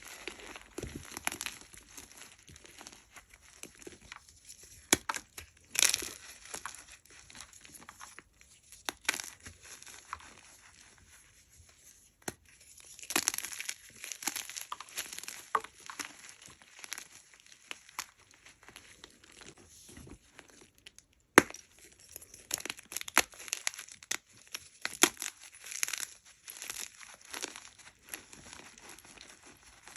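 Hard blocks of gym chalk being crushed and crumbled by hand, with irregular sharp crunches and snaps between softer crumbling and gritty rubbing.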